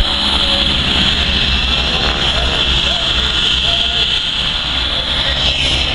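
Jet aircraft engine noise at an air show: a steady, loud high-pitched whine over a low rumble, with a faint voice underneath.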